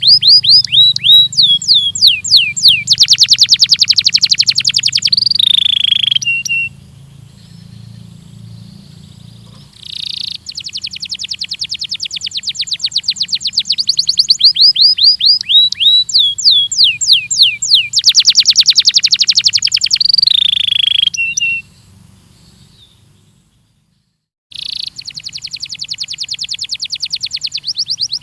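Belgian canary singing long phrases of fast, rapid-fire trills and downward-sweeping notes. The song comes in three stretches, with short pauses about six seconds in and about twenty-one seconds in.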